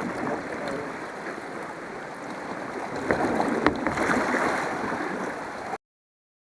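Water sloshing and splashing around a paddled kayak, with two sharp knocks about three seconds in. The sound cuts off abruptly near the end.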